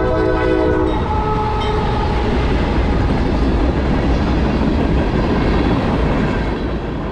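A CSX freight locomotive's air horn sounds at a road crossing and stops about a second in. After it, the train passes steadily, its cars rumbling and clacking over the rails.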